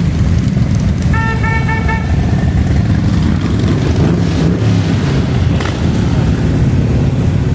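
Steady low rumble of a motorcycle on the move, with a rapid string of about five short horn beeps about a second in.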